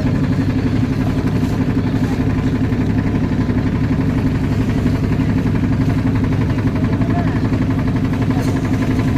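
Motorboat engine running steadily, a low even drone that holds the same pitch.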